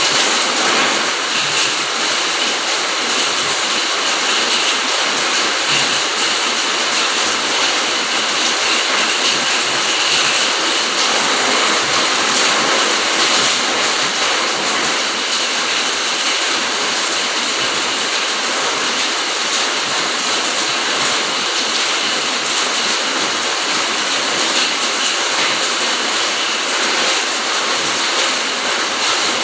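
Rain falling steadily: a dense, even hiss of many drops that holds without letting up.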